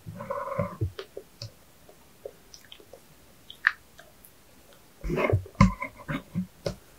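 Close-miked eating sounds: chewing with soft squishes and mouth clicks, scattered at first and thicker about five seconds in.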